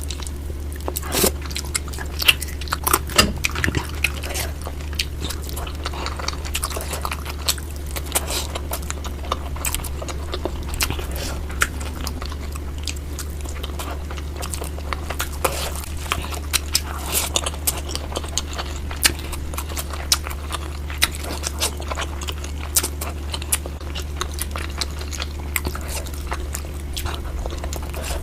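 Close-miked eating of spicy tandoori chicken, sped up to double speed: quick, irregular biting, chewing and smacking clicks, over a steady low hum.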